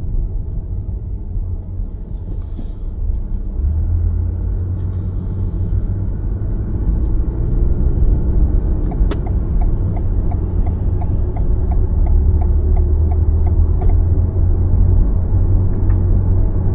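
Car cabin road noise: a steady low rumble of tyres and drivetrain, with two brief hissy swells in the first few seconds. About halfway through there is a sharp click, then an even ticking of about three ticks a second for some five seconds, like the car's turn-signal indicator.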